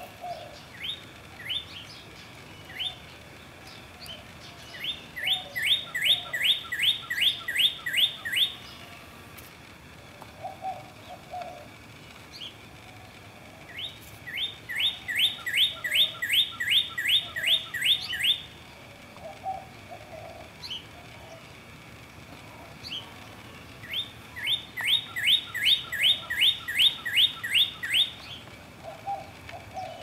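A songbird singing the same song three times, each a run of about a dozen quick falling notes lasting three to four seconds, led in by a few loose single notes. Faint low calls sound between the songs.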